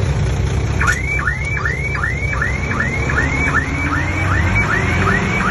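Komatsu D20P bulldozer's diesel engine running steadily under a deep rumble. From about a second in, a high rising chirp repeats evenly about two and a half times a second.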